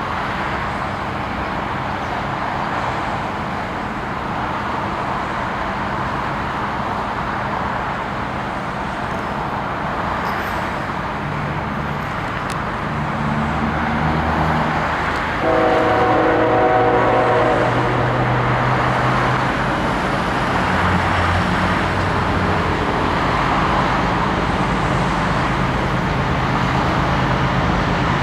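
Diesel freight locomotives running past with a steady engine rumble. About halfway through, the air horn sounds one blast, a multi-note chord lasting about two and a half seconds.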